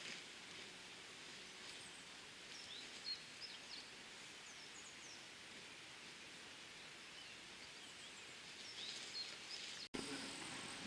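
Faint outdoor ambience: a steady hiss with a few short bird chirps scattered through it. The background changes abruptly near the end.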